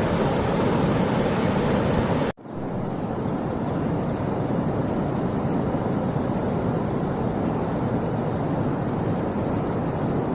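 Waterfall, steady rushing water. The sound drops out for an instant about two seconds in, then resumes with less hiss.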